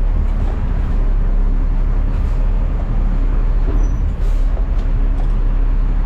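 Front-load garbage truck's diesel engine running steadily, with a low drone and a few faint knocks.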